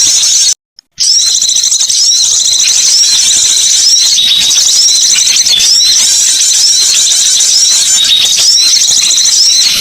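Loud, dense chatter of many high-pitched bird calls overlapping in quick succession: a bird-lure recording of small songbirds. A brief dead silence breaks it about half a second in, then the calling resumes.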